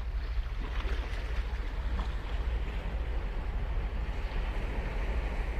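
Ocean surf breaking and washing up the beach, a rushing hiss that swells and eases, over a steady low rumble.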